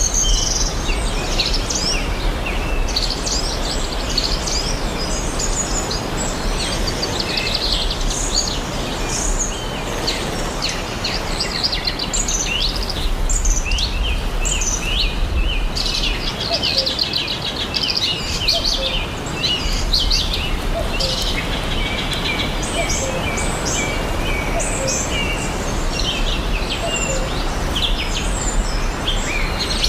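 Many songbirds chirping and singing over one another throughout, over a steady rushing background noise.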